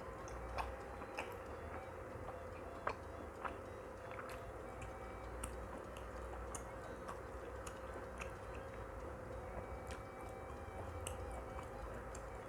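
Close-up chewing of shrimp and vegetable gyoza, with scattered wet mouth clicks and smacks.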